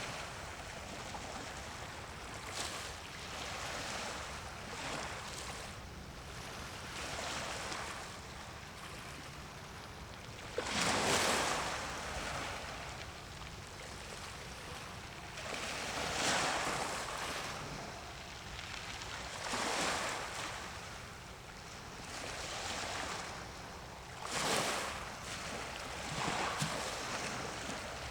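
Sea waves washing in against the shore in surges that swell and fade every few seconds, the strongest about a third of the way through.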